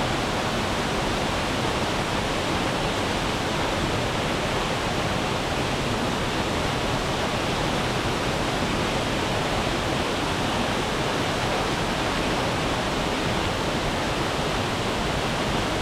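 A waterfall: a steady, even rush of falling water that does not change.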